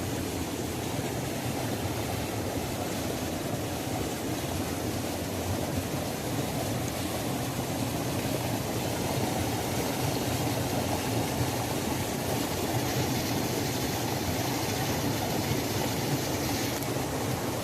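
Waterfall: the steady rush of falling water, an even, unbroken noise weighted toward the low and middle range.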